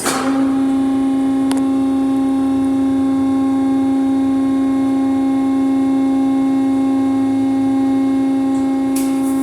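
Autec Evolution rollover car wash machinery running: an electric motor comes up to speed right at the start, then holds a loud steady hum with one strong low tone and fainter higher overtones.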